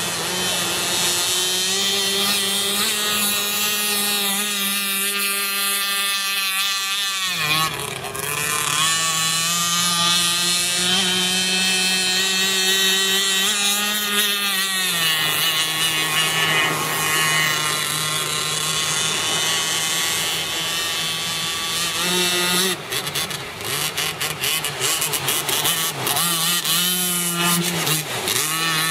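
Two-stroke 26cc Zenoah gas engine with tuned exhaust driving a radio-controlled boat, running at high revs. It eases off briefly about a quarter of the way in, settles a little lower about halfway, then rises and dips unevenly near the end.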